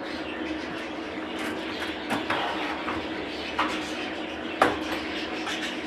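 A few light knocks and clicks of things being handled, over a steady hum.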